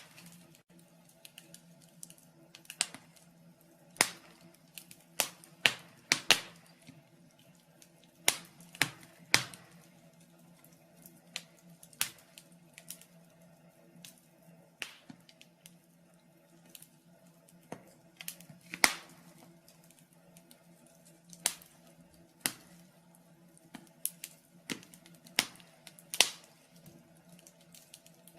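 Wood fire in a fireplace crackling, with irregular sharp pops and snaps a second or so apart, some louder than others. A faint steady hum runs underneath.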